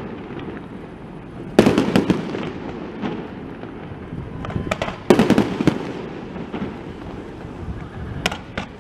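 Aerial fireworks exploding: two loud bangs, about a second and a half in and again about five seconds in, each followed by a dense run of crackling, with a few smaller scattered pops near the end.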